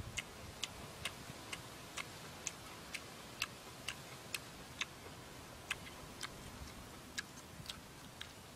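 A person chewing grilled cow lung with wet mouth smacks, about two sharp clicks a second.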